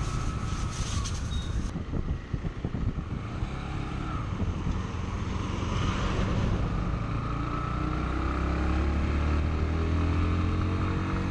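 Bajaj Pulsar NS160's 160cc single-cylinder four-stroke engine and exhaust running smoothly under way, the engine note rising gradually in the second half as the bike picks up speed.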